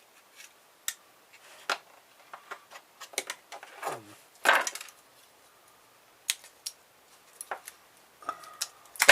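Hand tools and small metal parts of a car stereo being dismantled, clicking and clattering against the work table. It is an irregular string of taps and clacks, with a louder clatter about four and a half seconds in and another near the end.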